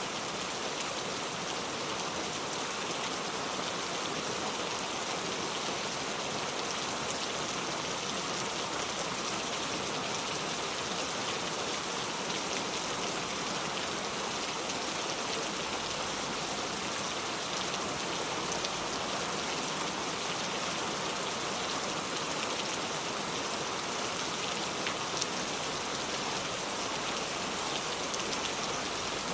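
Steady rain falling: an even hiss scattered with the patter of individual drops, unchanging throughout.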